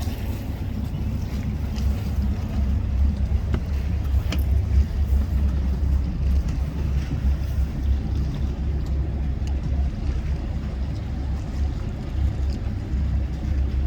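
Boat running on the water with a steady, loud low rumble and a few faint knocks.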